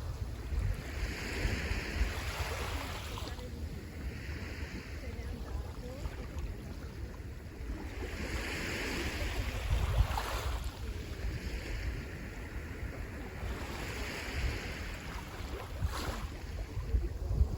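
Sea waves breaking and washing up the shore, each wash swelling and fading every few seconds. Wind rumbles on the microphone underneath.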